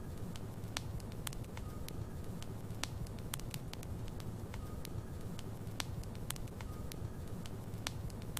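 Wood logs burning in a fireplace: frequent sharp crackles and pops, several a second, over a steady low rumble of the flames.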